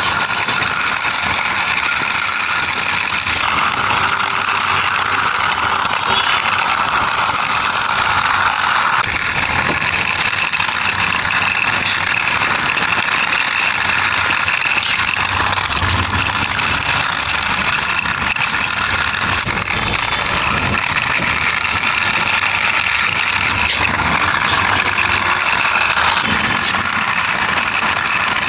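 Steady engine-like vehicle running noise, unbroken and even in loudness.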